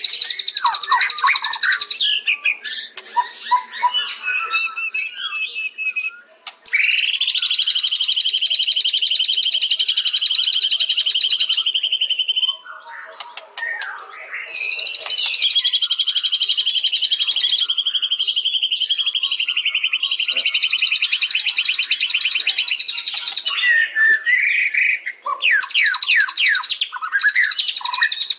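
White-rumped shama singing: clear whistled phrases sliding up and down, alternating with long runs of rapid, high, buzzy trills that last several seconds each.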